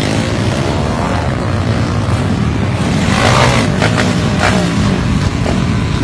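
Modified motorbikes with loud exhausts revving, the engine pitch rising and falling, with a louder rev about three seconds in.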